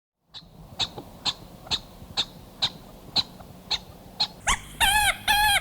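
Senegal bushbaby (lesser galago) calling: a run of short, sharp clicking calls about two a second, then, near the end, louder repeated pitched calls, each with a brief dip in pitch.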